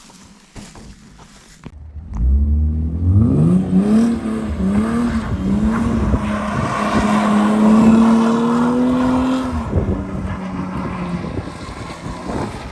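BMW E36 325is straight-six engine accelerating hard: quiet for about two seconds, then its pitch climbs and drops back three or four times in quick succession, holds a long steady climb, and falls away, fading near the end.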